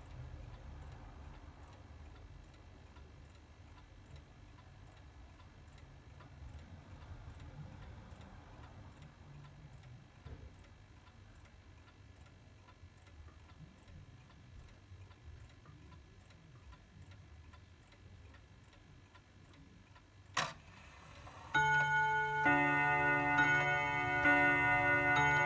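Mantel clock ticking quietly and evenly, then a single click from its works, and near the end its chime starts, several ringing notes struck one after another.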